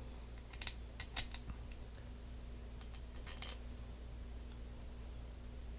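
Small screws and plastic kit parts clicking and tapping as they are handled: a quick run of light clicks about half a second in, and another about three seconds in.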